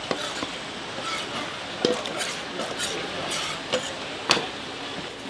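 A few sharp, irregular clinks and knocks of dishes and utensils, one of them ringing briefly, over a steady background hiss.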